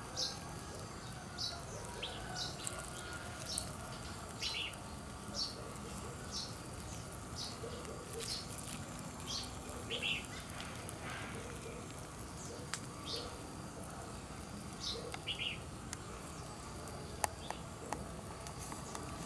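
A small bird calling in short, high chirps, roughly once a second, over a steady low background noise, with a single sharp click near the end.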